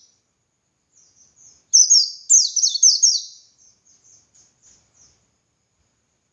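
White-eye (pleci) singing: a few soft high notes, then a loud quick run of high, sharply falling whistled notes about two seconds in, trailing off into softer notes and stopping near the end.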